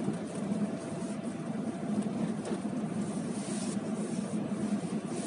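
Car cabin noise while driving: a steady low hum of engine and road noise.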